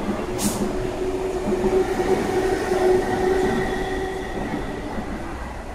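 MTR East Rail Line MLR electric train pulling out of the station and passing close by, its wheels rumbling on the rails under a steady whine. A brief hiss comes about half a second in, and the sound fades toward the end as the last cars go by.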